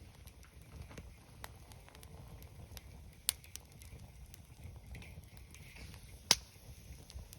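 Wood campfire crackling over a low steady rumble, with scattered small ticks and two sharp pops, one about three seconds in and a louder one about six seconds in.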